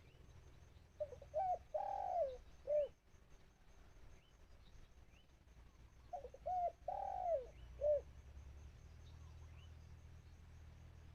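Spotted dove cooing: two calls about five seconds apart, each a few short notes and a longer falling one. Faint chirps of other small birds in the background.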